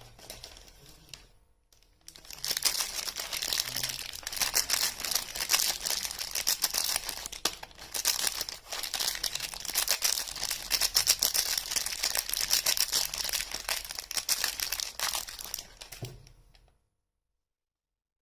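Soap packaging wrapper crinkling and tearing as a bar of soap is unwrapped. After a couple of seconds of light handling, a dense, continuous crackle runs for about fourteen seconds, then stops abruptly.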